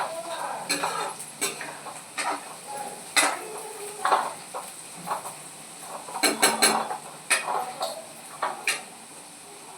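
Metal spoon stirring vegetables in a cooking pan: irregular scrapes and clinks against the pan, a cluster of them a little past the middle, with a faint sizzle underneath.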